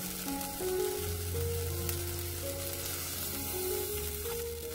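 Pork, onion and chili powder sizzling as they fry in oil in an earthenware pot, with water poured into the pot near the end. Background music plays over it.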